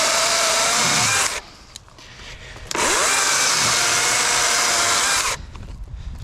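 DeWalt 60 V brushless cordless chainsaw running at full speed in two bursts of about two and a half seconds each. The motor's whine drops off after the first burst and spins back up about a second and a half later.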